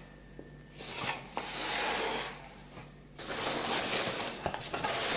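Paper rustling as sheets of paperwork are handled, in two stretches: one about a second in, the second starting a little past halfway.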